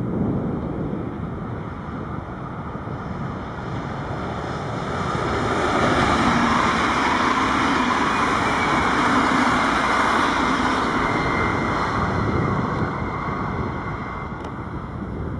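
A train passing on the railway line: its running noise grows louder about five seconds in, holds for several seconds, and fades away near the end. Wind is rumbling on the microphone throughout.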